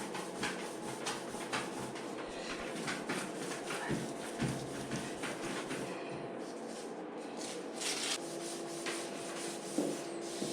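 Hand sanding a lacquered scooter side panel with abrasive paper: repeated back-and-forth rubbing strokes, a couple a second, easing off briefly about six seconds in. The clear coat is being flatted down to knock off small spots before a final flow coat of clear.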